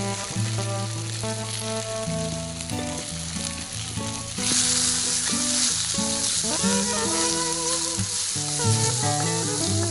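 Kimchi fried rice sizzling in a pan, the sizzle turning louder about four and a half seconds in, over background music with a melody.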